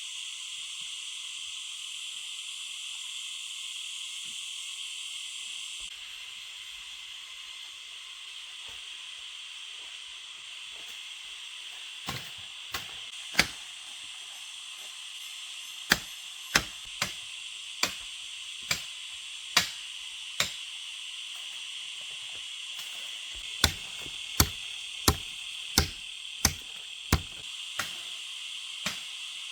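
Steady high-pitched insect chorus, with two runs of sharp knocks about a second apart in the second half.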